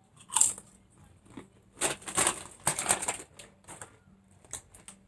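A person chewing crunchy Lay's potato chips: an irregular series of short crunches, busiest in the middle.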